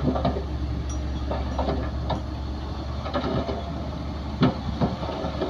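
Heavy diesel earthmoving machinery running with a steady low rumble, with irregular metallic clanks and squeaks, the loudest about four and a half seconds in.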